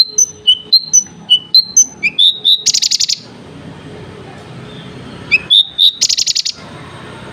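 Javan bush lark singing close by: short clear whistled notes at about four a second, then a quick rising phrase ending in a fast buzzy rattle. After a pause of about two seconds, the rising phrase and rattle come again.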